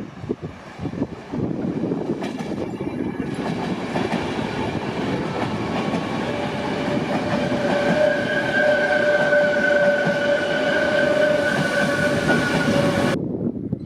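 A train passing through a station with a loud rolling rumble of wheels on rail. About halfway through, a steady high-pitched tone joins and holds for several seconds before the sound cuts off sharply near the end.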